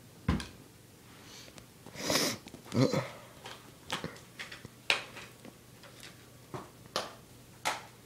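A person hacking and coughing in harsh, irregular bursts that sound like retching, the two loudest about two and three seconds in, followed by shorter sharp coughs and sniffs.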